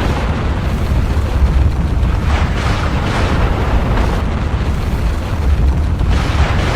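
Volcanic eruption: a steady deep rumble with repeated rushing surges rising over it.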